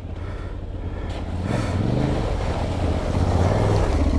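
Parallel-twin adventure motorcycle engine running off-road, revs rising and falling. It grows steadily louder.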